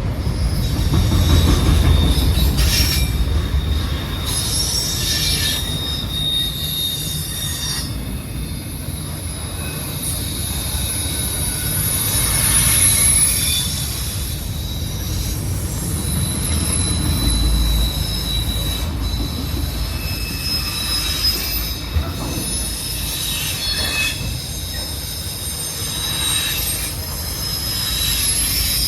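CN autorack freight cars rolling past with a steady low rumble, their steel wheels squealing in high, thin tones that come and go.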